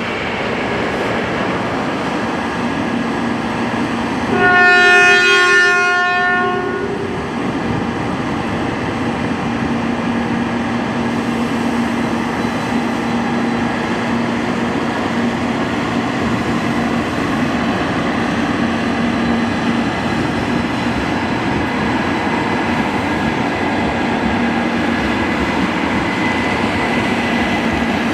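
A Shinkansen train's air horn (typhon) sounds one blast of about two seconds, about four and a half seconds in. Before and after it, the steady running noise of the train continues.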